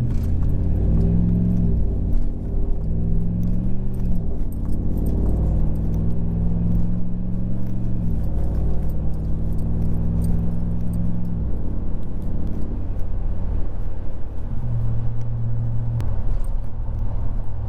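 2015 Ram 1500's 5.7-litre Hemi V8 through a Carven Competitor Series cat-back exhaust, heard from inside the cab, pulling away and accelerating through the gears: the engine note rises and drops back at each of several upshifts, then settles to a steady cruise. Light rattling clicks sound on top.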